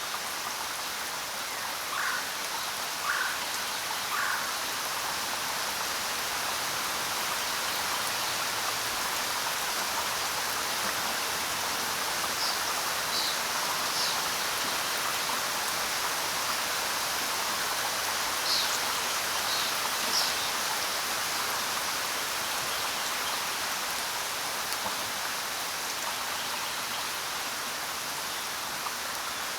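Steady rain falling on the ground, an even hiss of drops. A few brief, higher sounds stand out over it in groups of three, near the start and twice later on.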